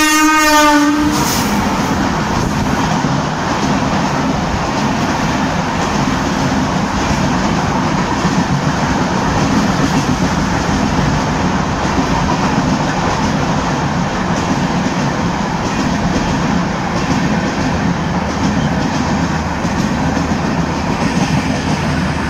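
A locomotive horn sounds briefly at the start, then an empty rake of passenger coaches runs past close by at speed, a steady loud rumble and rattle of wheels on rails.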